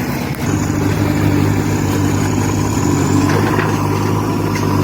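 Heavy machine's engine running with a steady note, coming in about half a second in after a brief dip in level.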